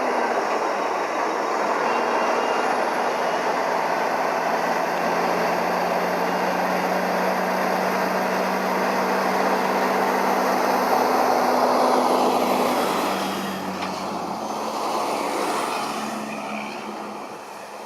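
Truck engine running steadily, easing off after about thirteen seconds.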